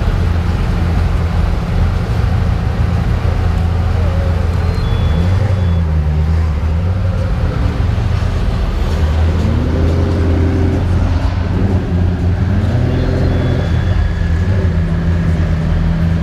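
Supercar engines running at low revs with a steady deep hum, with a few revs that rise and fall in the middle.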